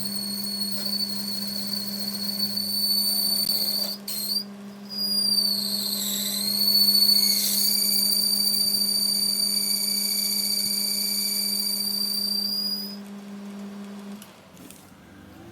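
A workshop machine motor running with a steady high-pitched whine over a low hum. The whine dips in pitch twice in the middle, then the whine and the hum shut off near the end.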